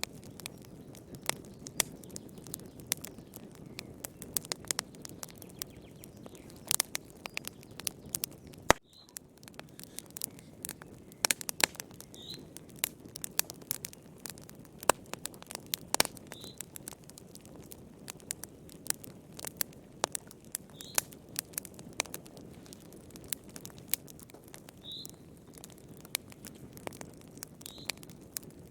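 Wood fire crackling: irregular sharp pops and snaps over a steady low rush of flame. A short high chirp recurs every four seconds or so.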